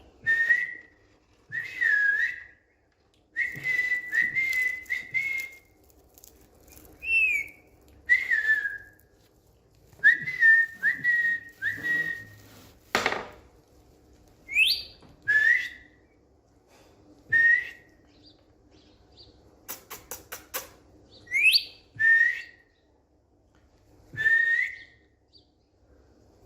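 Indian ringneck parakeet whistling: a series of short whistled notes, some sweeping sharply upward. A harsh, noisy call comes about halfway through, and a quick run of clicks follows later.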